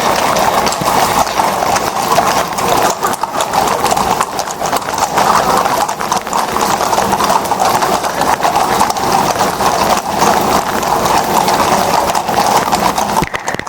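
Many shod horses' hooves clip-clopping on the street as a mounted procession passes, a dense, continuous clatter of overlapping hoof strikes.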